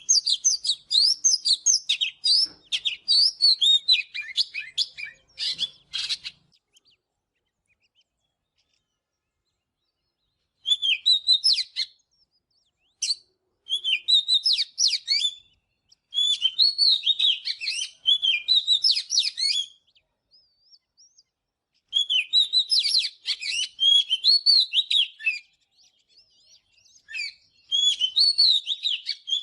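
Oriental magpie-robin singing: rapid, varied, high whistled phrases in bursts of a few seconds, broken by short pauses and one longer silence about six seconds in.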